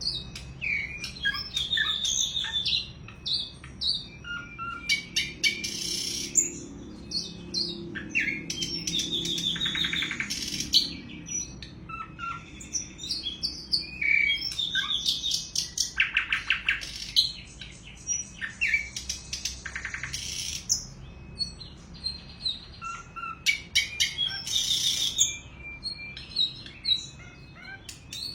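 Sikatan londo flycatcher singing its aggressive song: a quick, varied run of high chirps, whistled slurs and trills, broken every few seconds by harsh buzzy rattles.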